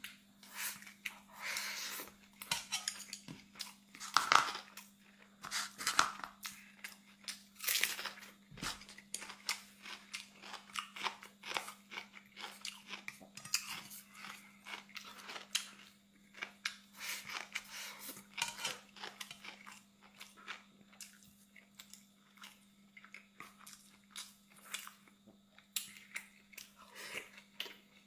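Close-miked eating sounds: a person biting and chewing food, with frequent irregular crunches, clicks and mouth noises. A faint steady low hum runs underneath.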